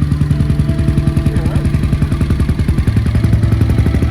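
Motorcycle engine running with a rapid pulsing note, which drops a little in pitch about three seconds in.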